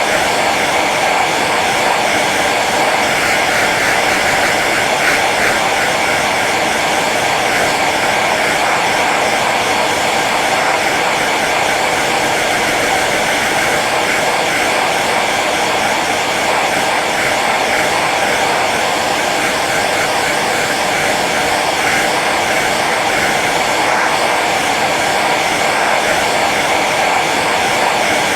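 Hair dryer running steadily on its low setting: an even rush of blown air over the hum of its fan motor.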